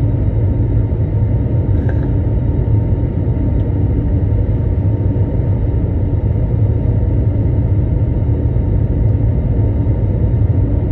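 Steady low rumble of Airbus A321 cabin noise, the jet engines and airflow heard from inside the passenger cabin.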